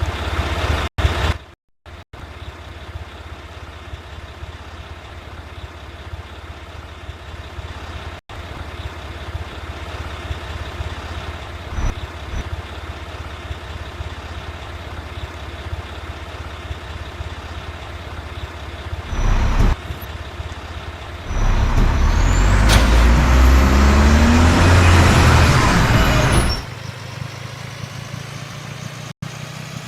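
Mack rear-loader garbage truck running steadily. A brief louder sound comes about two-thirds of the way in, then a much louder stretch of about five seconds with strong low rumble and hiss.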